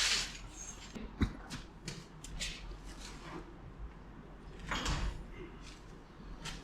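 Scattered workshop handling noises: a short hiss at the start, a sharp knock about a second in, light clicks, and another short hiss about five seconds in.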